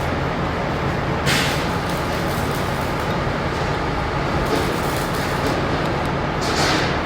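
Steady machine hum with three short hissing bursts, about a second in, midway and near the end.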